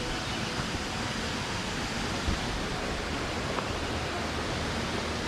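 Steady rush of water cascading down the rock tiers of a waterfall, with one brief knock about two seconds in.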